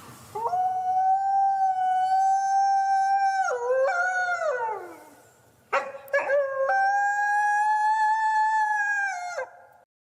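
Wolf howling: two long howls. Each slides quickly up to a held, nearly steady note and falls away at its end. The second begins with a few short, broken notes before settling.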